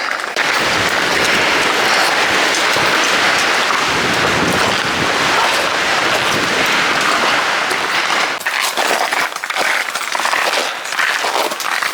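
Strong winter gale blowing on an exposed mountain ridge, a steady loud rush of wind that turns gustier and uneven in the last few seconds.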